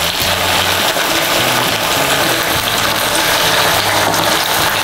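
Batter-coated chicken pieces shallow-frying in hot groundnut oil: a loud, steady sizzle.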